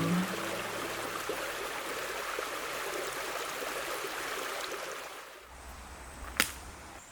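River water flowing steadily, then thinning about five seconds in; a single sharp click sounds near the end.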